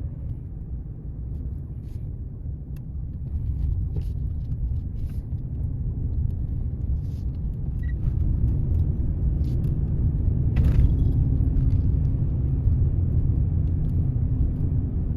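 A car driving along, its road and engine rumble low and steady, slowly growing louder, with a few faint light ticks.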